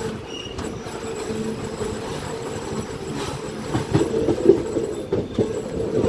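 Train running on the rails with a steady hum, and a run of sharp knocks from the wheels clicking over rail joints in the second half.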